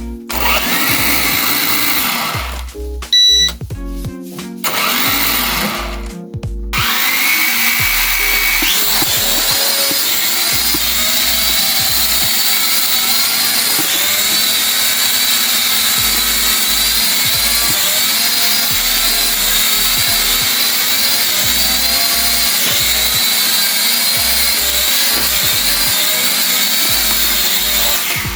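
Small electric motors of an E99 toy quadcopter drone whining as they spin up and run. The propellers start and stop a few times in the first seven seconds, each time rising in pitch, then spin up and run steadily to the end. Background music plays underneath.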